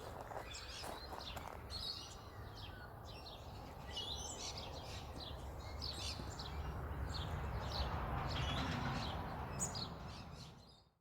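Outdoor birdsong: many short chirps and tweets from several birds over a low steady rumble that swells in the second half, then the sound fades out near the end.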